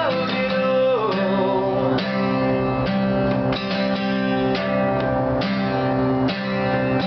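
Guitar strumming chords about once a second in an instrumental break, with a sung note gliding down and ending about a second in.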